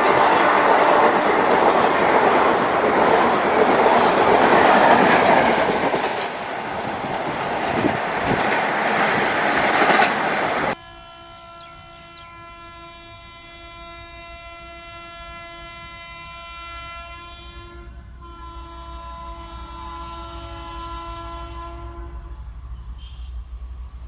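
An Indian Railways express train hauled by a WAP-4 electric locomotive passes close at high speed, its wheels loud on the track, for about the first ten seconds. After an abrupt cut, a WAP-4 horn sounds from a distance, held for about ten seconds with one short break, over a low rumble of an approaching train, in repeated honking typical of running in dense fog.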